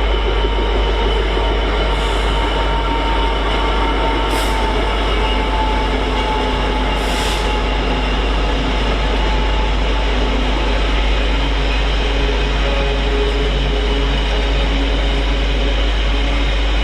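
Freightliner intermodal freight train passing, a long rake of container wagons rolling by with a steady, loud rail rumble. Thin squealing tones come from the wheels, and there are two brief hisses about four and seven seconds in.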